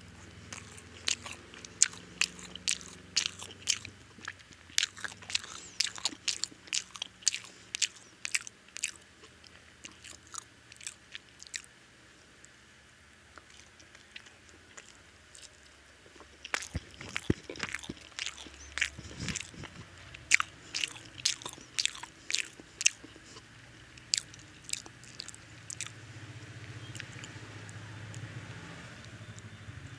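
Close-up chewing and biting of egg-fried toast (dim toast): quick sharp mouth clicks and crunches, several a second, with a pause of a few seconds midway.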